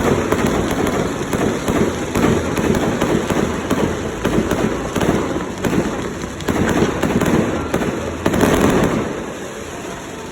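Fireworks display going off: a dense, continuous run of bangs and crackling that eases off near the end.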